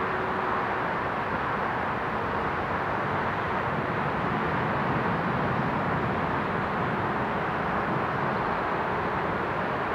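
Jet airliner, an Airbus A320neo, heard as a steady roar of engine noise, with a faint steady tone in it early on.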